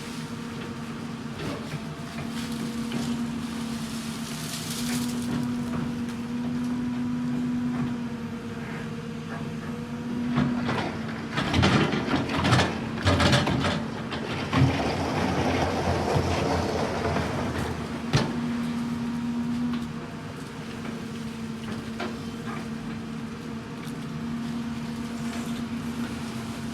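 Excavator's diesel engine running with a steady hum. Between about 11 and 15 seconds in come a series of loud knocks and scraping, followed by a few seconds of louder rushing noise before the engine settles back to its steady hum.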